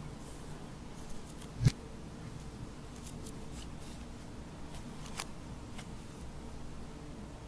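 Glossy glitter slime being handled and mixed, giving sparse soft clicks and pops with one louder pop a little after one and a half seconds.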